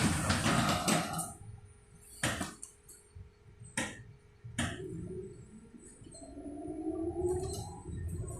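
Electric bus interior: a few sharp knocks and clunks in the first five seconds. Then, from about six seconds in, the traction motor's whine rises steadily in pitch as the bus accelerates.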